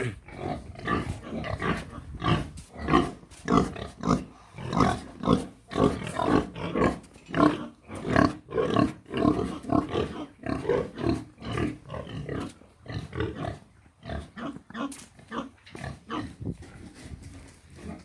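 Pigs grunting in short, rapid bursts, several a second, with the grunts thinning out near the end.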